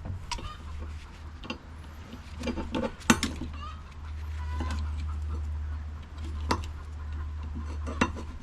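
Small brass fittings clinking and knocking as they are handled and dropped, a few sharp metallic clinks with a short ring, over a steady low hum.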